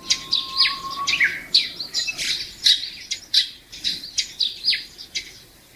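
Pet lovebird chirping: a quick run of short, high chirps that sweep downward in pitch, about three a second, thinning out near the end.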